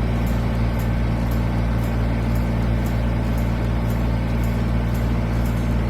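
Kubota BX23S tractor's three-cylinder diesel engine running at a steady speed while the backhoe works.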